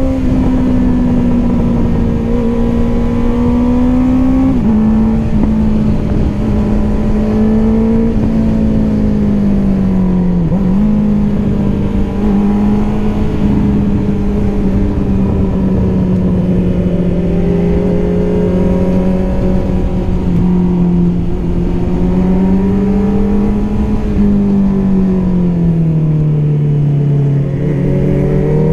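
Honda CBR650R's inline-four engine running through an Akrapovic exhaust under way, holding a steady high note with small sudden pitch drops about five and eight seconds in and a slow fall in pitch near the end, over wind rush.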